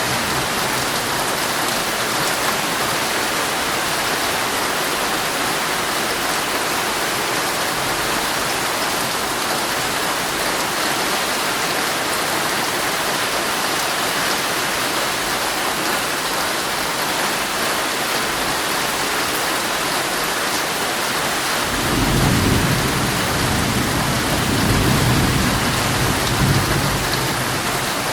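Heavy rain falling on a tent, a steady dense hiss. About three-quarters of the way through, a low rumble of thunder rolls in and swells for several seconds.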